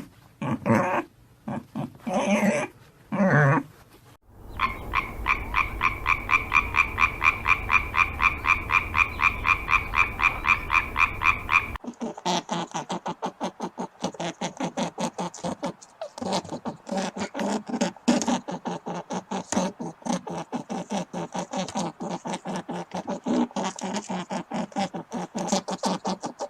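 Frogs croaking. After a few short, separate animal calls at the start, a fast, even run of pulsed calls begins about four seconds in, and around the middle it gives way to a longer stretch of lower, rapid croaking.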